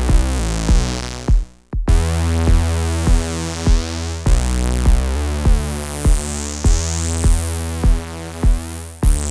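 Eurorack synth patch played through a Swenigiser Proto VCF/A filter and amplifier module, its input driven hot for a gritty sound: a sustained buzzy note under a steady kick-drum pulse a little under twice a second. The sound briefly drops out about a second and a half in, and in the second half the filter sweeps up and down in the top end.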